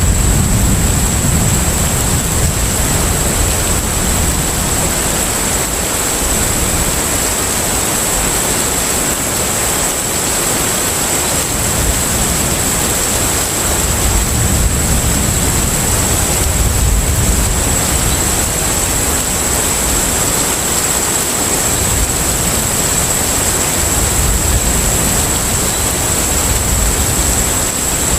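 Steady rushing noise of a container ship under way at sea: wind and water wash over a low rumble that swells and eases every few seconds, with a constant thin high whine on top.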